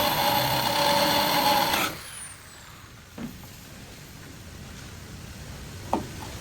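A high-speed power tool running steadily with a high whine, switched off about two seconds in, its pitch falling as it spins down; then two light knocks.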